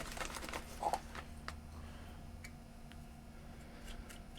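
Faint, scattered small clicks and taps from hand work on the open portable CD player as its volume control is cleaned, over a low steady hum.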